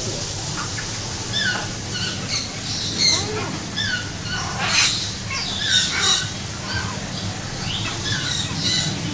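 Several birds calling: a short falling call repeats about once a second, and loud harsh squawks come about five and six seconds in, over a steady low hum.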